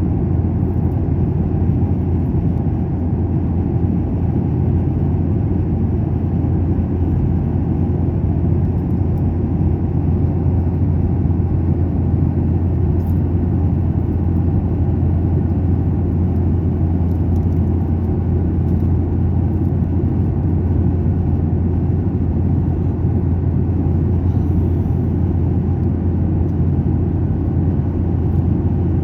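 Steady low rumble of an airliner's cabin: jet engine and airflow noise heard from inside the passenger cabin, unchanging throughout.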